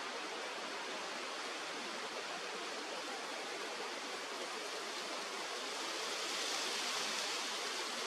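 Steady rush of flowing river water, a little louder for a couple of seconds near the end.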